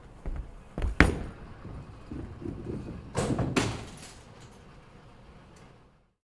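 A handful of sharp knocks and thumps over a low rumble, the loudest about a second in and two more near the middle. The sound cuts off abruptly near the end.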